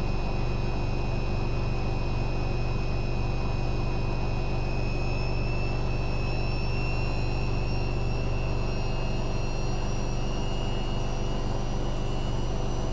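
Hoover Dynamic Next washing machine on a spin cycle, its drum spinning at speed with a steady low rumble and a high motor whine whose pitch creeps up slightly partway through.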